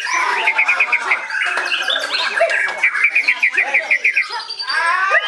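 White-rumped shama singing a varied, continuous song: fast runs of repeated short notes mixed with whistles and sliding calls.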